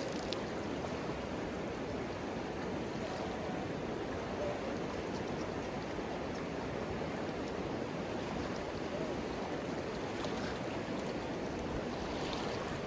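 River water running steadily: an even rushing noise with no breaks.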